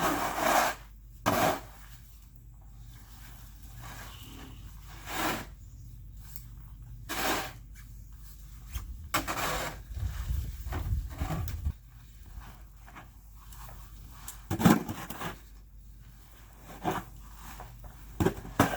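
Snow shovel scraping and pushing snow in irregular strokes, one every second or two. A low rumble runs briefly around the middle.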